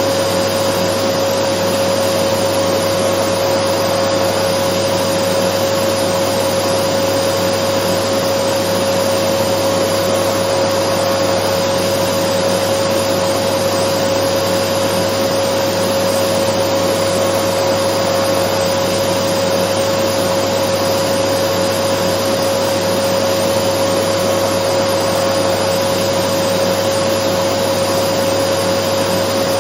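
Dyson vacuum cleaner running steadily: an even rush of air with a constant whine on top, unchanging throughout.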